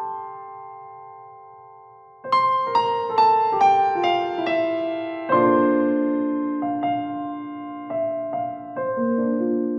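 Background piano music: a chord fades out, then about two seconds in a quick run of notes steps downward, followed by slower struck chords that ring and decay.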